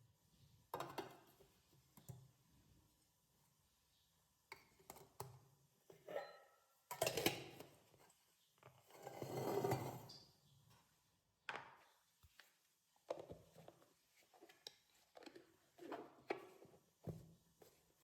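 Quiet, scattered knocks and thuds of objects being handled, with a couple of brief rustling swells partway through.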